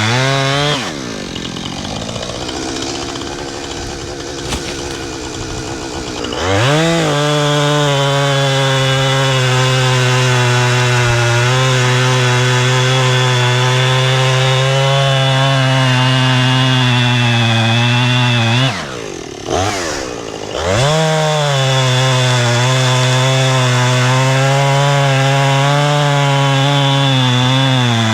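Two-stroke chainsaw cutting wood at full throttle. It drops back about a second in, revs up again around six seconds in, and eases off briefly about two-thirds of the way through before going back to full throttle.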